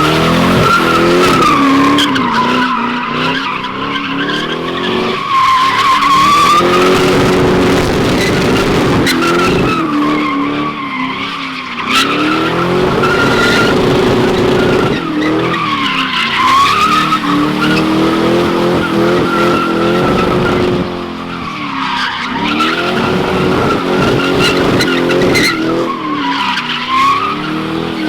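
Pontiac GTO's V8 held at high revs while its tyres squeal without a break through donuts. The engine pitch sags and climbs again about every five seconds as the car loops. The tyres are near the end of their life.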